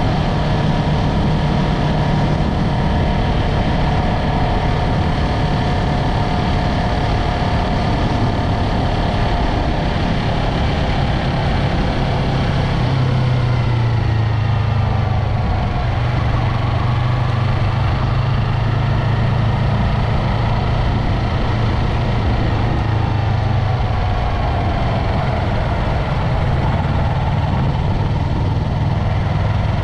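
Yamaha MT-03's parallel-twin engine running steadily at low, even revs, its drone dropping slightly in pitch partway through and then holding.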